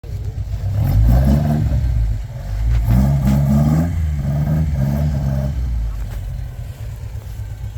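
Ford Escort Mk1 Mexico replica's engine revved three times, each blip rising and dropping back, then settling to a low idle about six seconds in.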